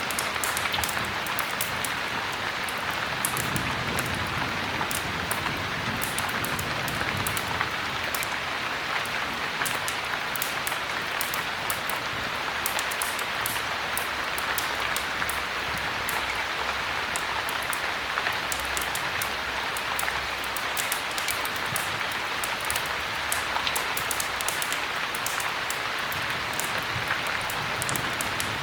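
Steady heavy rain: an even hiss dotted with frequent brief, sharp ticks.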